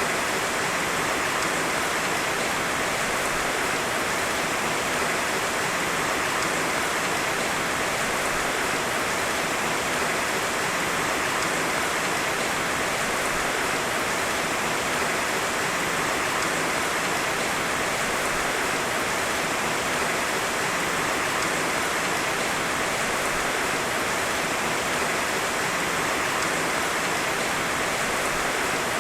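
Heavy rain falling steadily: a dense, even hiss with no thunder and no separate drops or knocks standing out.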